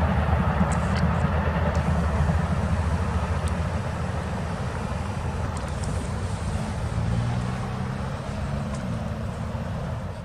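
Steady low rumble of a train receding down the tracks, slowly fading, with a few faint clicks.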